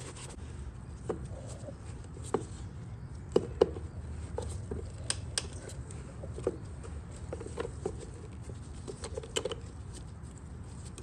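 Scattered light clicks and taps of hands handling a dirt bike's plastic airbox and foam air filter parts, over a low steady background hum.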